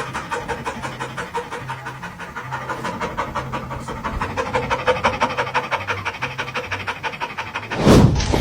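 A dog panting quickly and evenly, about six breaths a second. A brief, loud rush of sound comes near the end.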